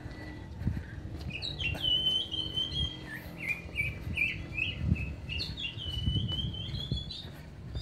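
Small bird chirping: a busy run of short, quick high notes that keeps going, with a few soft low thumps underneath.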